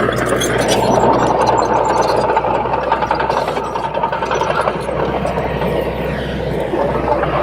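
Komatsu D21P small crawler bulldozer working, its diesel engine running steadily under load with a dense mechanical clatter, a little louder from about a second in.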